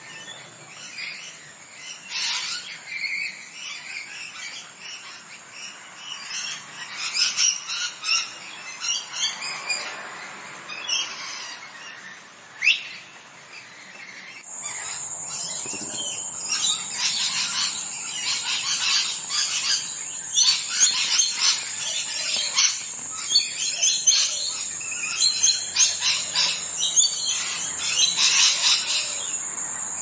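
Birds chirping and calling in many short high notes. About halfway through, a steady high-pitched whine joins and the calls become louder and denser.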